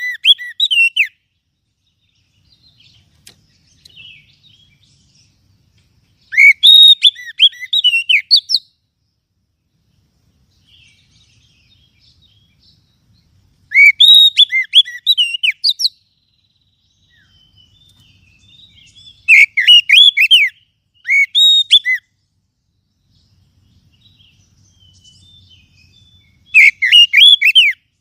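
Oriental magpie-robin (kacer) song, delivered in loud phrases of rapid, curving whistled notes, each about two seconds long. The phrases come roughly every six seconds, with short silences between.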